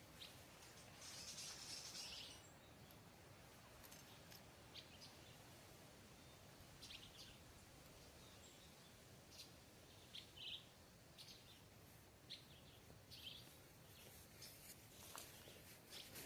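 Quiet forest ambience: scattered short, faint bird chirps and calls, with a brief high buzz about a second in, over a low steady hiss.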